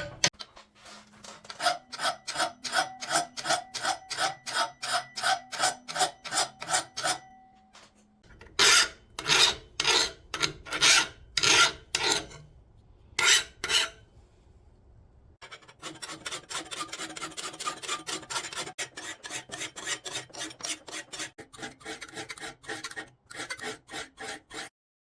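Hand file being pushed back and forth over forged steel, about two to three strokes a second, in three bouts with short pauses between. The last bout is quieter and a little quicker, and it stops just before the end.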